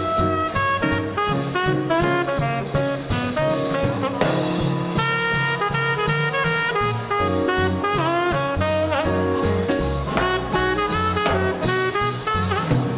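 Small-group swing band playing live: saxophone and brass lines over bass and drums keeping a steady beat.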